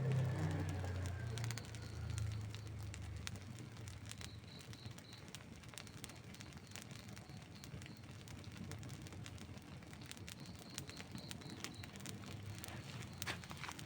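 Wood fire crackling, with scattered sharp pops and snaps over a faint hiss. A low rumble, loudest at the start, fades out over the first three seconds.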